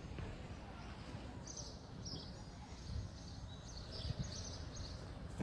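Small birds chirping in short high bouts, about a second and a half in and again near the end, over a low steady outdoor background rumble.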